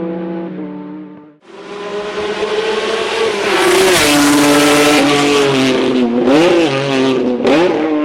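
A race car's engine note fades away, then after a short gap a second race car comes up at speed, its engine and exhaust growing loud; near the end its pitch dips and climbs back twice.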